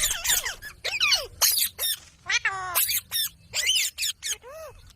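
Indian ringneck parrot chattering: a quick run of short, high chirps and squawks, with a couple of longer calls that bend up and down in pitch.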